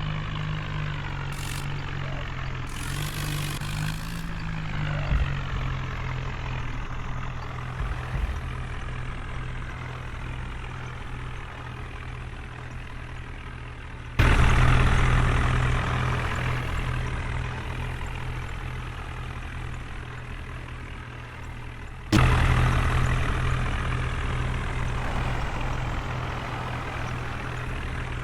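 Heavy diesel vehicle engine running steadily with a low hum. Twice, a little before halfway and again near three-quarters through, the sound suddenly gets much louder and then fades away slowly.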